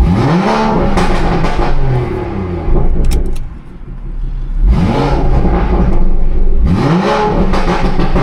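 BMW 340i's turbocharged inline-six, breathing through a catless downpipe and valved exhaust, revved sharply three times in neutral. Each rev climbs and falls away, with pops and crackles as the revs drop.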